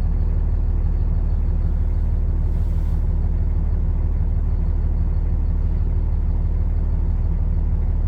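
Pickup truck engine idling, a steady low rumble heard from inside the cab.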